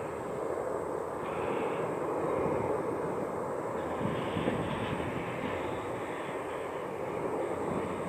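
Jet airliner engines running, a steady rushing noise without clear rise or fall.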